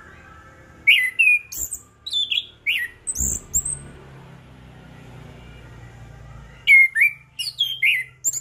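Orange-headed thrush (anis kembang) singing: two bursts of quick whistled notes, many sliding down in pitch, starting about a second in and again near the end, over a faint low hum.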